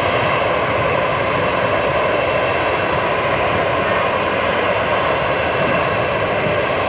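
Jet airliner engines running steadily: an even, unbroken rush of noise with a faint high whine.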